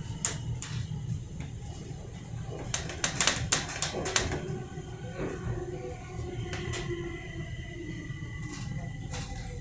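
Stockholm metro train heard from inside the car: a steady low rumble with scattered clicks and knocks, and a steady high whine that comes in about two-thirds of the way through.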